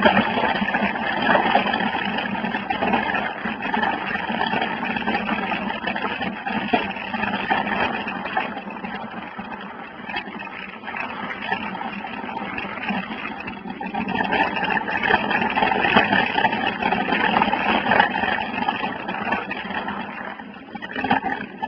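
Rushing wind on a phone microphone and tyres rolling over a dirt trail while a mountain bike is ridden, the level swelling and easing with speed.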